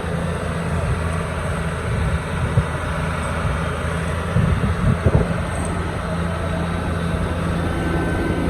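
An engine running steadily, with a few knocks about halfway through.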